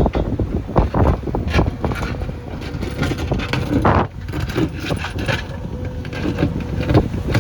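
Backhoe loader's diesel engine running under a low rumble, with irregular knocks, clanks and scraping as it works soil. Wind buffets the microphone.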